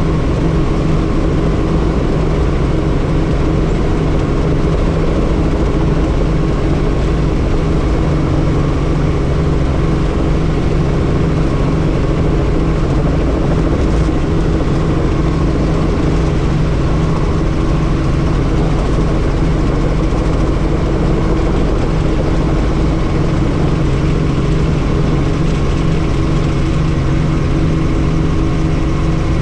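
Helicopter in flight heard from on board: a loud, steady drone of rotor and engine with several held tones.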